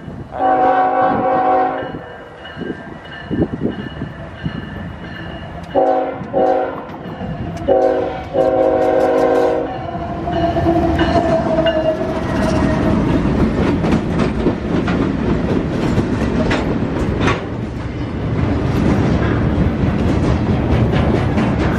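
Norfolk Southern freight locomotive approaching and sounding its multi-tone air horn: a long blast, two short blasts close together, then another long blast. About ten seconds in, the locomotives pass with a loud engine rumble, followed by the steady clatter and rumble of double-stack container cars rolling by.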